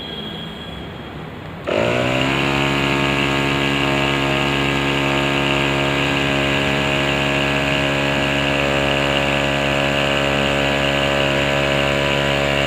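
A motor starts up about two seconds in, its pitch rising quickly, then runs steadily at a constant speed.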